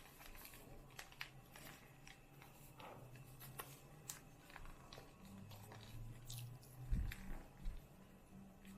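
Faint crinkling and rustling of a square of origami paper being folded in half and creased, a string of small crackles, with a soft knock about seven seconds in.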